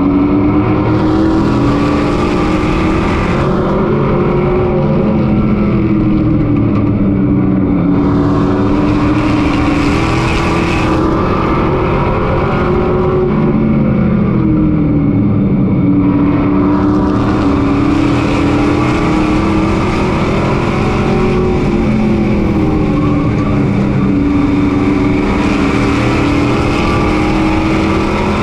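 Race truck engine heard from onboard, running hard at high revs. Its pitch drops three times as the truck lifts for a turn and climbs again along each straight, lap after lap, with wind hiss on the faster stretches.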